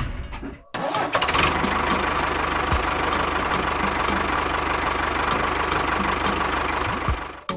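An engine running steadily with a regular tick about four times a second. It cuts in abruptly just under a second in and cuts off sharply near the end.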